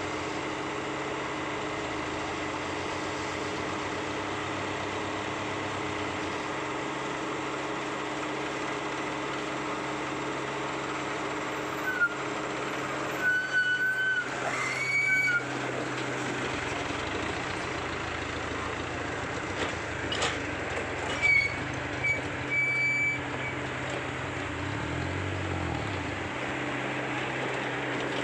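Komatsu PC75UU compact excavator's diesel engine running steadily under work, with short high-pitched squeals around the middle and again a little later.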